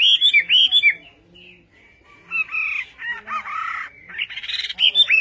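Hwamei (Chinese hwamei, a laughingthrush) singing loud whistled notes that swoop down in pitch, repeated several times. After a pause of about a second it goes on with varied whistled phrases and a quick run of notes near the end.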